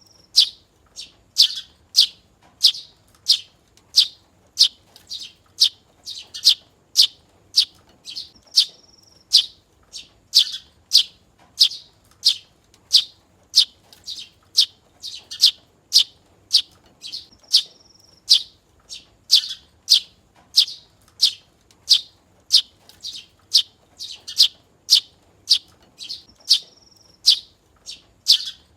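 Young Eurasian tree sparrow chirping over and over, about two sharp high chirps a second, with a short level high note three times. These are a fledgling's calls as it learns its voice.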